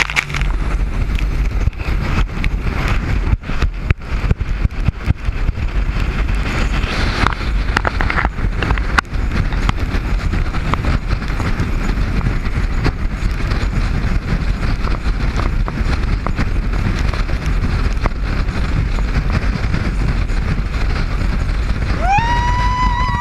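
Wind buffeting the microphone over the rush of a speedboat running fast across the water, with many sudden gusts. Near the end a loud, high held cry rises in and holds.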